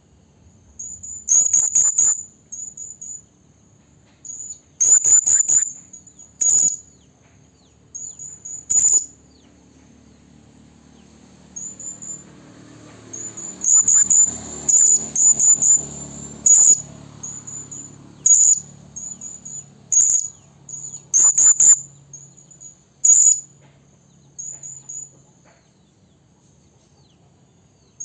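Serindit (hanging parrot) calling: runs of short, very high, thin, shrill notes repeated throughout, with several much louder sharp call notes among them. This is a lure call, a female serindit calling for males.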